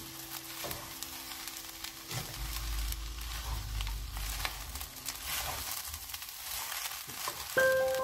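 Fried rice sizzling in a frying pan while a wooden spatula stirs and turns it, with frequent scrapes and taps against the pan. Light music notes begin near the end.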